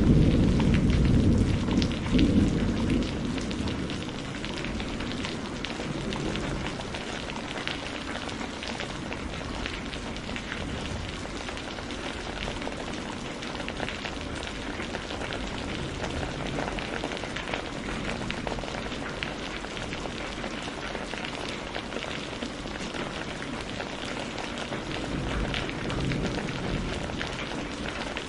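Steady rain falling, with many small drop ticks. A low rumble of thunder dies away over the first few seconds.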